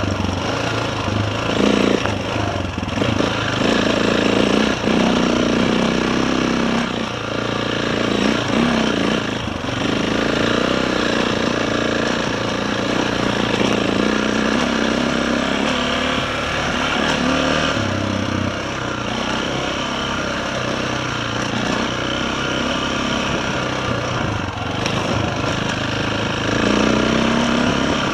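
KTM 525 single-cylinder four-stroke dirt bike engine running at low-to-middling revs on a rough, rocky trail. The throttle is opened and closed again and again, so the engine note keeps rising and falling.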